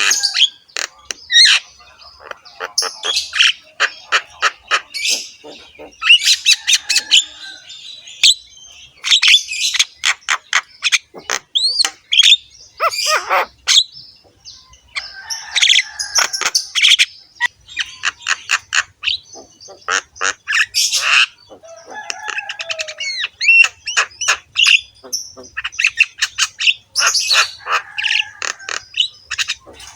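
Javan myna singing a long, varied song in a harsh voice: rapid trains of clicking, rasping notes mixed with short whistled glides, with only brief pauses.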